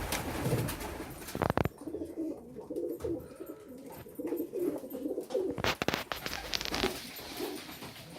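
Domestic pigeons cooing: a run of low, rolling coos, with a few sharp knocks about a second and a half in and again near the end.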